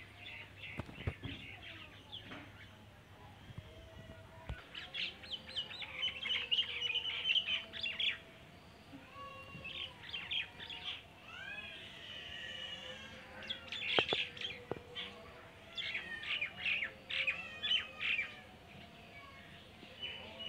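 Birds chirping in bursts of rapid notes, several calls overlapping, with a few rising and falling whistles in between.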